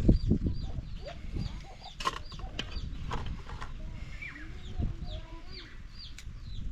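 Chickens clucking, with many short, high, falling chirps repeating throughout and a couple of sharp knocks about two seconds in.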